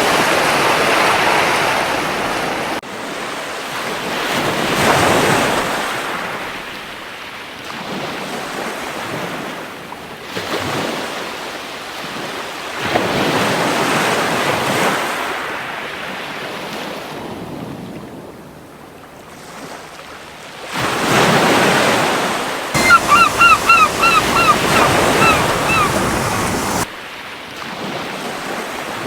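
Gentle surf washing onto a beach, the wash rising and fading every few seconds. About three-quarters of the way through, a gull gives a quick run of about a dozen short, repeated calls lasting some three seconds.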